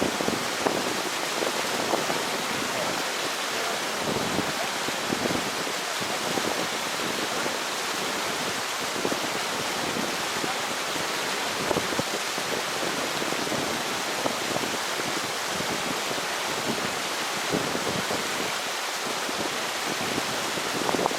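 Rushing water of a stream, a steady wash of noise with many small splashes and gurgles all through.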